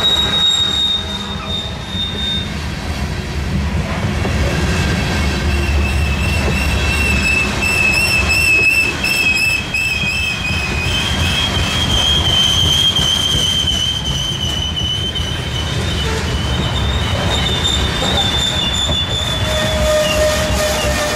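Freight train cars rolling past with a steady low rumble, their wheels squealing in high, wavering tones that shift in pitch as different wheels take up the squeal.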